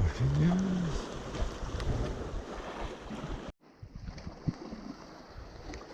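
Wind on the microphone over the wash of sea swell, with a man's shout of "yes" near the start. About three and a half seconds in the sound cuts off abruptly to a quieter, duller bed of sea and wind.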